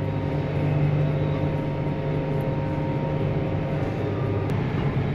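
Large John Deere tractor's diesel engine running steadily under load, with a faint steady whine above it, while it pulls a stuck tractor out of the mud on a tow rope.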